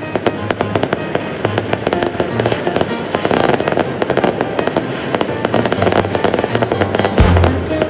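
Fireworks going off in dense, rapid crackling pops, with a deep boom near the end, over pop music.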